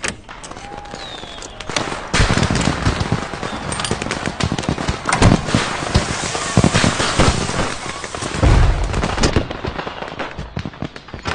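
Firecrackers going off in a rapid, dense string of sharp bangs and crackles, thickest from about two seconds in until near the end.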